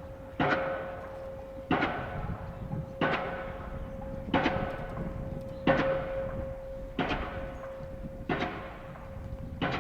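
Diesel pile hammer driving a steel H-pile, striking at a steady rate of about one blow every 1.3 seconds; each blow is a sharp bang with a metallic clang ringing after it. A steady ringing tone runs under the blows.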